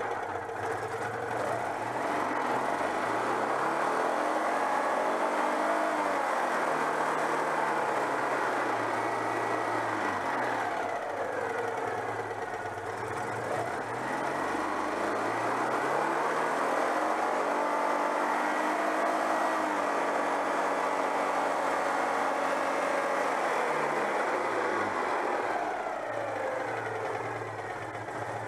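Citroën 2CV's 602 cc air-cooled flat-twin engine running on its first test run after reassembly. It is revved up and held twice, dropping back toward idle about eleven seconds in and again near the end.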